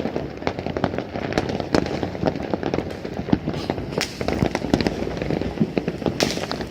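Fireworks going off in a continuous barrage: many sharp cracks and pops at irregular intervals over a steady rumble of distant bursts, with a brief rushing hiss near the end.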